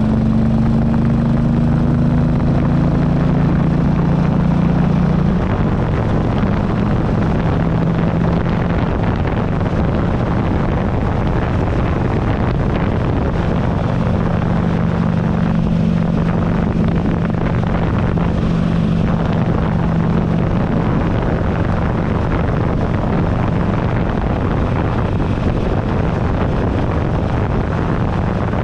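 2008 Buell Ulysses XB12XT's air-cooled V-twin engine running under way, with heavy wind noise on the microphone. The engine pitch climbs a little over the first five seconds, then holds steady.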